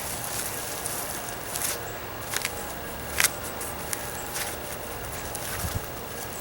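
Sweet potatoes being dug out of a tub of soil by hand: a steady rustle of soil and vines with about five sharp cracks and snaps spread through it.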